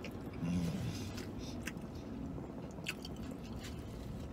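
A man chewing a mouthful of chicken and avocado burrito, with scattered wet mouth clicks and a brief low hum about half a second in.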